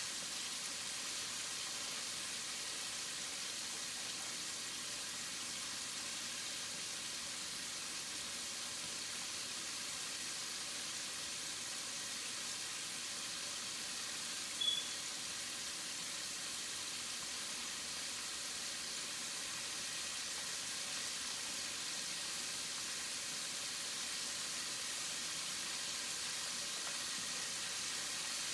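Food frying in a skillet: a steady sizzle throughout, with one short sharp tick about halfway through.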